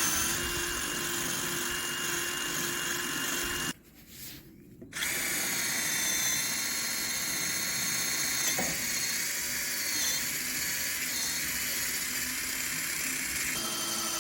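Power drill running steadily as it drills holes: one run of a few seconds, a pause of about a second, then a longer run that stops shortly before the end.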